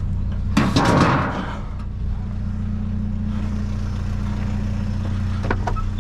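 A vehicle engine idling steadily, with a loud clatter lasting about a second that starts about half a second in.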